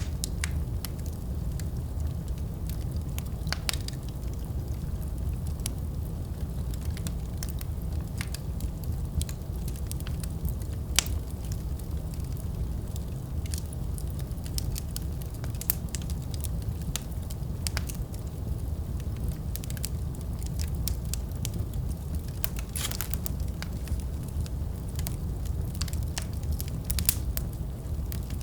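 Wood fire crackling in a fireplace: a steady low rush of flames with irregular sharp pops and snaps, a few louder ones.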